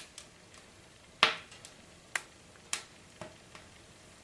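Wood fire crackling in a fireplace: about five sharp pops spread out, the loudest about a second in.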